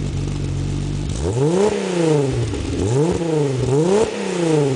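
VW Corrado VR6 engine with a freshly fitted TT exhaust and 42DD high-flow cat idling, then revved three times in quick succession, the pitch rising and falling with each throttle blip before it drops back to idle near the end.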